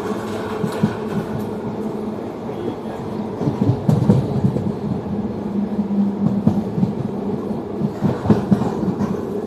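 Kaveri Express passenger train running on the rails: a steady rumble and hum with irregular knocks from the wheels, heaviest about halfway through and again near the end.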